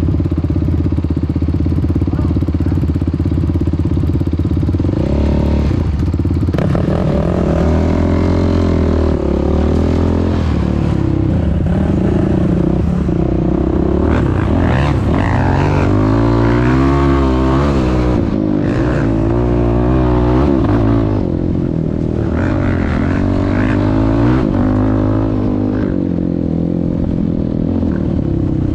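Yamaha YFZ450R's single-cylinder four-stroke engine breathing through a Rossier R5 aftermarket exhaust, running steadily for about five seconds and then revving up and down again and again as the quad is ridden.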